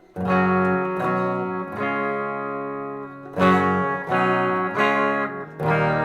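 Electric guitar played clean through a Fender Blues Deluxe tube amp: a run of strummed chords, each left to ring.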